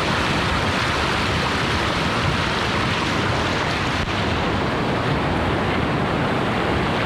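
River rapids rushing: a steady wash of whitewater noise.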